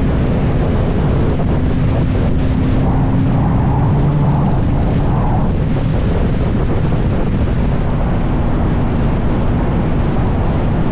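Kawasaki ZX-6R's inline-four engine running at a steady pace while riding, buried under heavy wind buffeting on the microphone.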